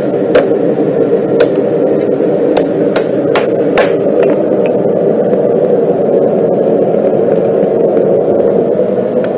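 Hammer blows striking metal at an irregular pace, about seven in the first four seconds, then stopping, over a steady mechanical hum.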